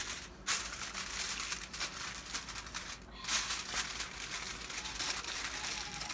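Aluminium foil crinkling and crackling as it is handled and pressed over a seed tray, with short pauses between bouts of handling.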